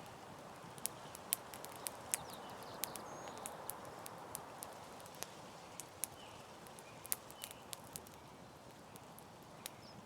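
Campfire burning: a steady soft rush of flame with irregular sharp crackles and pops from the burning wood, several a second at times.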